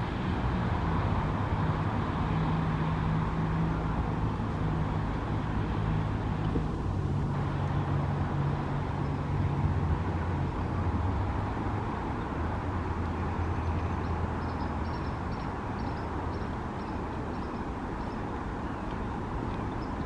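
Steady road-traffic noise with a vehicle engine droning low close by, its drone fading out about two-thirds of the way through. Near the end comes a run of short, high chirps, repeated about twice a second.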